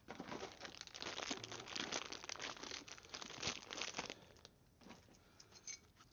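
Irregular crinkling and rustling of something being handled and rubbed for about four seconds, then it drops away to a few faint ticks.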